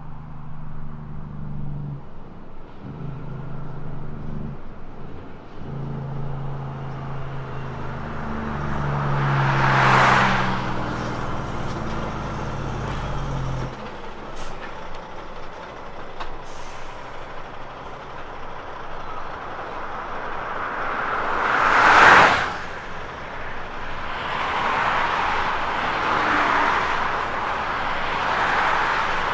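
Kenworth T403 dump truck's diesel engine, with a dog trailer, running on its engine brake (Jake brake), a low steady drone that cuts off abruptly about halfway through. Passing traffic swells past twice, the louder one about three-quarters of the way in, and then a broad engine and road noise builds again.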